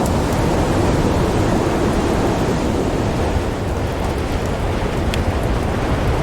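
Snowstorm wind blowing steadily in a dense, low-heavy rush, with a few faint fire crackles near the end.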